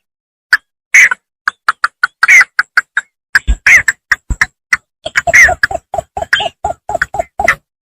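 A bittern calling: runs of short, sharp notes, about four to six a second, with brief gaps between runs.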